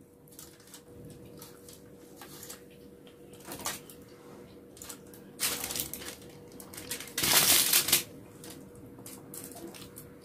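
Eating by hand: chewing and small mouth clicks throughout, with short rustling bursts of handling food on a foil-covered table. The longest and loudest burst comes about seven seconds in and lasts under a second.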